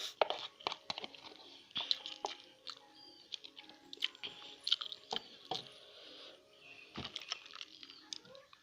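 Close-miked eating of Mie Sedaap cup instant noodles: chewing with many short, sharp, wet mouth clicks at an irregular pace.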